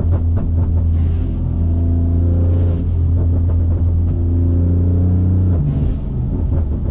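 BMW S55 twin-turbo straight-six running through catless downpipes, a single mid-pipe and an open valved axle-back, giving a loud, deep, steady exhaust drone while driving. The drone drops away about five and a half seconds in.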